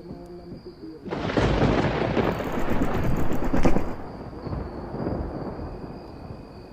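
Storm-like rumble from the intro of a music video, played back inside a reaction video: a noisy rumble rises about a second in, is loudest just before four seconds, then dies down to a softer hiss.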